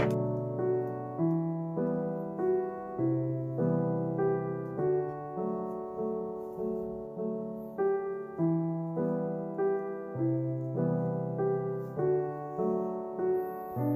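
Background piano music, a gentle repeating pattern of notes over changing bass chords.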